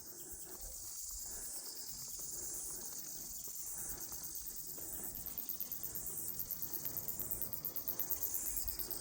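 High-pitched insects chirring steadily in the bush. A fast, even pulsing grows stronger over the second half.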